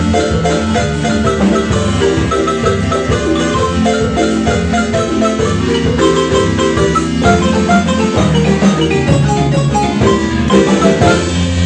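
Marimba music: a marimba playing a lively piece, fast runs of mallet-struck notes over steady low bass notes.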